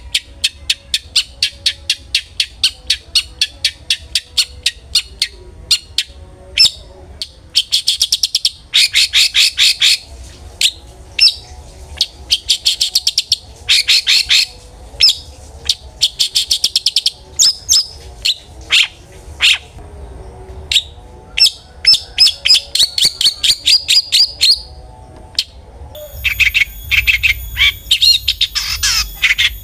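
Long-tailed shrike (cendet) singing: rapid trains of sharp, chattering notes, several a second, in runs broken by short pauses. Near the end it turns into a denser, more varied jumble of notes.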